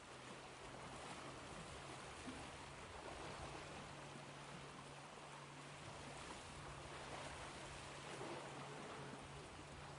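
Ocean waves washing in a faint, steady rush with only gentle swells, and a low hum underneath that drops out briefly a few times.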